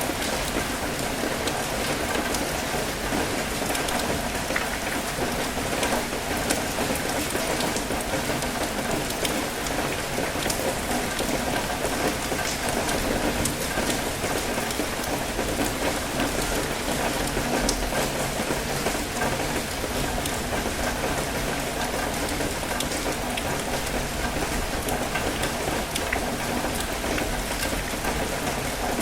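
Steady rain falling, with many individual drops ticking close by over an even hiss.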